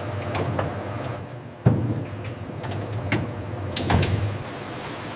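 Industrial machinery running with a steady low hum and scattered clicks and knocks. A sharp clunk comes about a second and a half in and another near four seconds, and the hum drops away shortly before the end.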